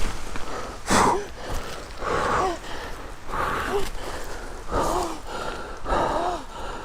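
A man panting heavily, five loud, voiced gasping breaths about a second apart, out of breath from scrambling on a steep creek bank.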